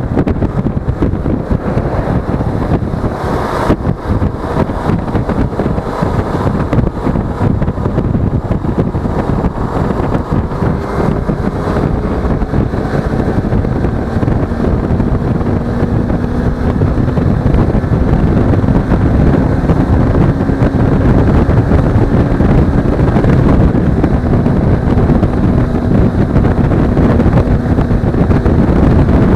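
Heavy wind rush on an action camera's microphone while riding a Suzuki V-Strom 250, with the motorcycle's parallel-twin engine running underneath. Its pitch climbs slowly and the sound grows a little louder in the second half as it gathers speed.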